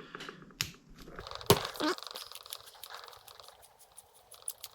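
Light clicks and knocks of small carburetor parts and tools being handled. About a second in a steady hiss starts and runs until near the end.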